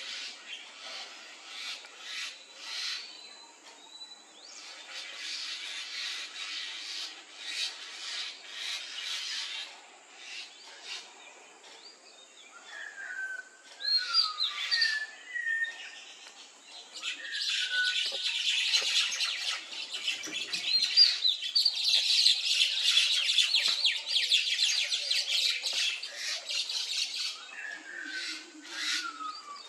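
Birds calling: repeated harsh, chattering squawks mixed with short whistled slurred notes, building to a long stretch of loud, dense chattering about two-thirds of the way through.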